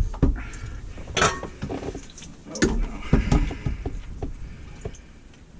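Sharp knocks and clatters from plumbing parts and tools being handled during a garbage disposal and drain installation, with a brief scraping rustle about three seconds in.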